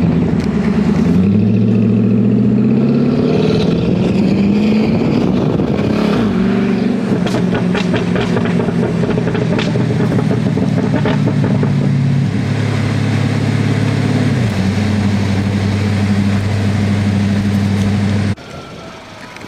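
Car engine running, its pitch climbing over the first few seconds and then holding steady, cut off abruptly near the end.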